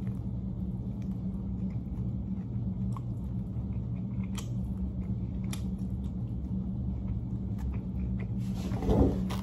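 A person chewing and biting into barbecue chicken wings, with a few sharp wet mouth clicks over a steady low room hum. A brief, louder voice-like sound comes near the end.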